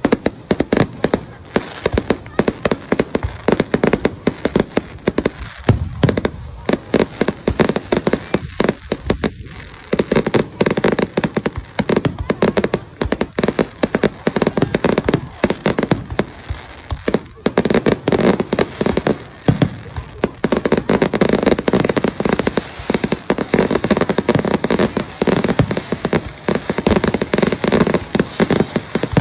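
Fireworks going off in a rapid, continuous stream of sharp bangs and crackles, many each second, thinning briefly about nine seconds in.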